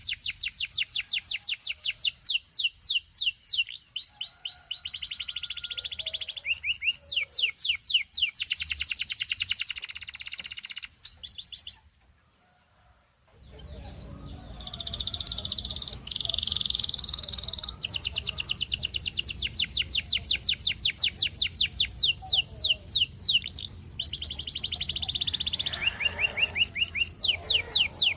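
Canary singing in long rolling trills of fast, repeated high chirps, the syllable type changing every second or two. The song breaks off briefly about twelve seconds in and then resumes.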